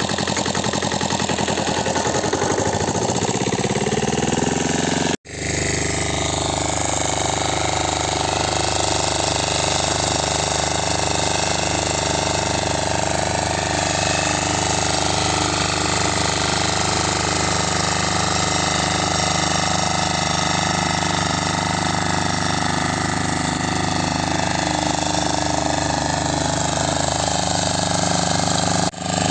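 Engine of a small walk-behind tiller, built around an engine taken from an old Bullet motorcycle, running steadily. Its pitch falls over the first few seconds, and the sound breaks off for a moment about five seconds in and again near the end.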